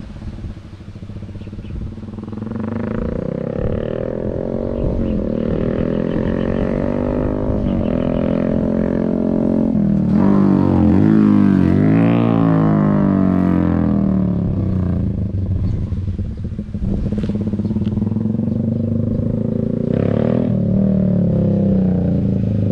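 Yamaha Sniper 150's single-cylinder four-stroke engine running loud through a ProLiner racing exhaust with its silencer (DB killer) removed, as the motorcycle is ridden. The engine pitch climbs and drops with throttle and gear changes, with a sharp rise and fall about halfway through, still short of full revs.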